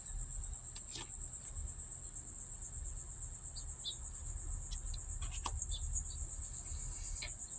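Steady high-pitched chirring of an insect chorus, with a low background rumble and a few faint clicks.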